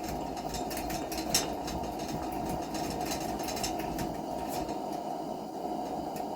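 Coleman lantern burning after lighting, with a steady hiss. A few faint ticks over it.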